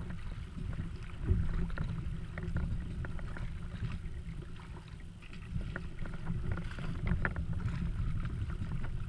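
Water splashing and sloshing around a Skimmer 128 sit-on-top kayak as it is paddled, with scattered small splashes over a steady low wind rumble on the microphone.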